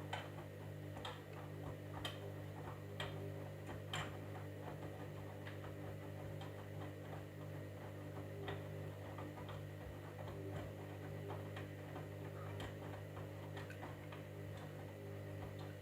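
Candy EcoMix washing machine running with a steady hum and sharp ticks, about one a second at first and more irregular later. The machine stops abruptly near the end.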